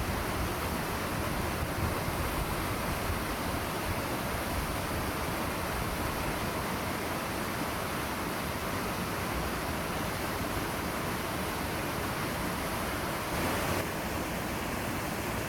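Steady rush of flowing water, an even hiss with no distinct events; its tone shifts slightly near the end.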